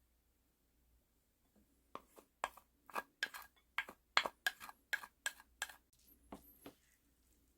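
Close-up crunching chews of soy-marinated raw stone crab, shell and all: about a dozen sharp crunches at roughly four a second starting about two seconds in, then a few fainter ones.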